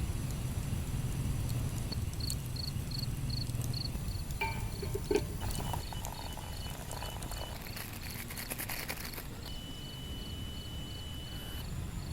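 Outdoor ambience: a steady low rumble, with a short high chirp repeating about twice a second from about two seconds in, and a few clicks and a thin high tone in the middle.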